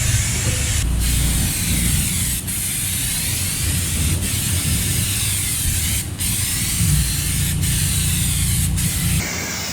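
Pressure washer spraying, a loud steady hiss of water jet over the low drone of its pump, cut off briefly about six times. The sound changes near the end.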